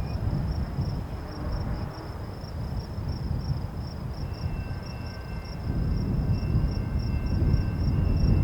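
Insect chirping in a steady pulse, about three chirps a second, over a low rumble that grows louder about five and a half seconds in. Faint steady high tones join about four seconds in.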